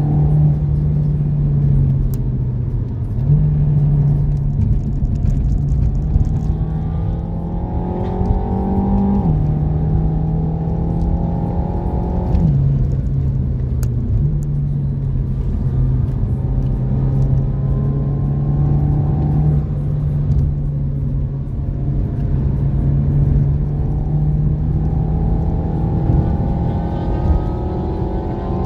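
Renault Mégane RS Trophy's turbocharged four-cylinder engine accelerating hard, heard from inside the cabin with tyre and wind noise. Its pitch climbs and drops back at each upshift, most clearly about nine and twelve seconds in.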